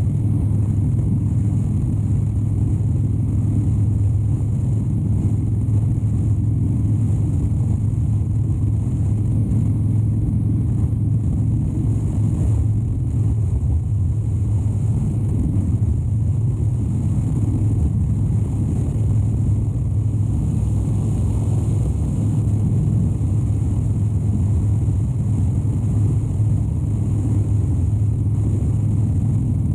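2013 Harley-Davidson Dyna Wide Glide's 103-cubic-inch Twin Cam V-twin running steadily at an even cruising speed, with no revving up or down.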